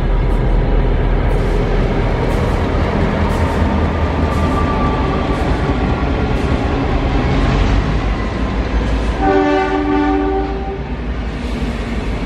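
Diesel locomotives hauling an empty cattle train past, a steady low engine rumble with wheels clicking over the rails in the first few seconds. About nine seconds in, a train horn sounds once, a chord lasting about a second and a half.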